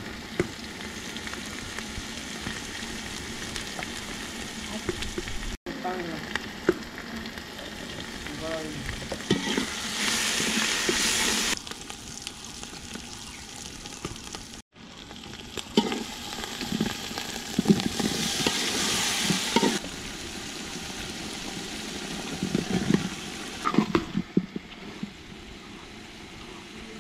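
Onion, chili and spices frying in oil in a large aluminium pot, a steady sizzle that swells louder twice, with a metal spatula scraping and knocking against the pot as it is stirred.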